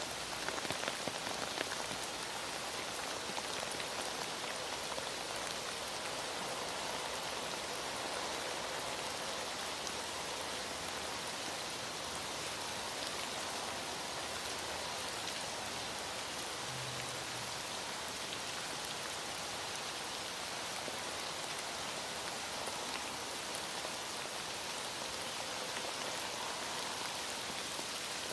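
Heavy rain falling steadily, an even, dense hiss of drops with no breaks.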